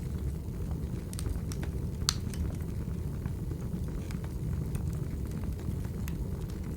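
Wood fire burning in a fireplace, crackling with scattered sharp pops over a steady low rumble; one louder pop about two seconds in.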